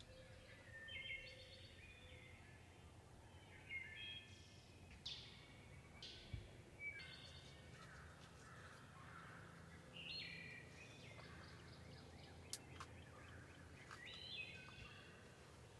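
Wild birds calling: a scattered series of short high chirps and quick down-slurred notes over a faint low background hum.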